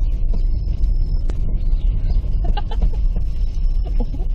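Wind buffeting the microphone: a steady low rumble, with scattered light clicks and a faint thin high whistle that comes and goes.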